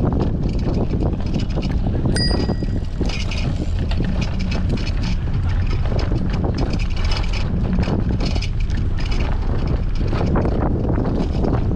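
Strong wind buffeting the helmet or handlebar action camera's microphone during a bicycle ride, over steady tyre and road rumble. A bicycle bell rings once, briefly, about two seconds in.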